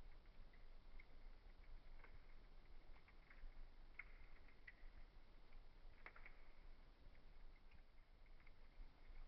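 Faint fireplace fire crackling: scattered small snaps and pops over a low, steady hiss, with a couple of slightly louder snaps near the middle.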